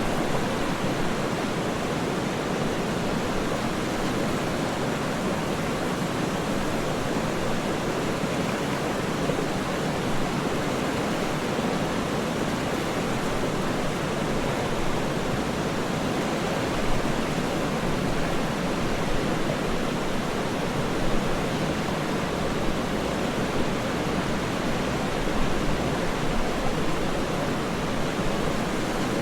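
Steady, unchanging rush of falling water from a waterfall.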